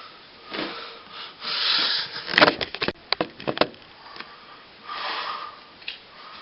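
Soft rustling or rubbing swishes, broken by a quick run of sharp clicks and knocks a little past the middle.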